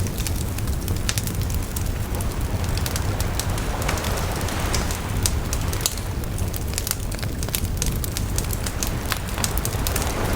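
Campfire crackling with frequent sharp pops over a steady low rumble, with sea waves washing in; one wave swells up about four seconds in and another near the end.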